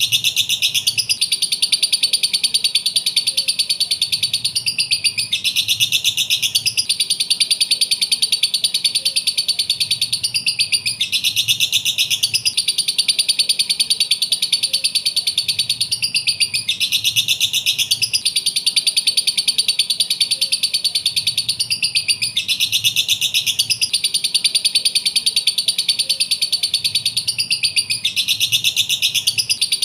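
Lovebird chattering in a fast, continuous, high-pitched trill, the same recording looping about every six seconds.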